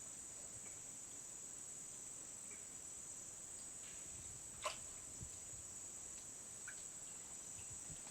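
Steady, high-pitched drone of insects, crickets or similar, shrilling without a break. One brief sharp sound cuts in about halfway through.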